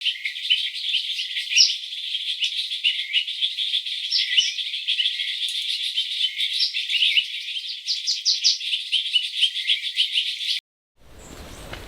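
Dense chorus of small high chirps and trills from wild animals, with sharper chirps standing out now and then; nothing sounds below the chirps. It cuts off abruptly near the end, and after a moment of silence a quieter outdoor hiss begins.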